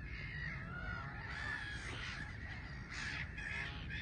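A mixed flock of gulls and geese calling, many harsh calls overlapping without a break, over a low rumble of wind on the microphone.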